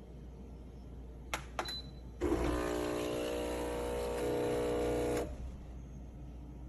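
Two clicks, then the espresso machine's 20-bar pump buzzing steadily for about three seconds before stopping, over a low steady hum.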